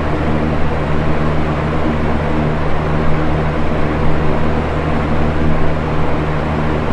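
Box fan running steadily: an even whoosh of moving air with a low motor hum underneath.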